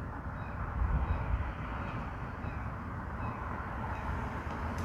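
New motor oil being poured from a bottle through a funnel into the engine's oil filler, a steady rushing pour.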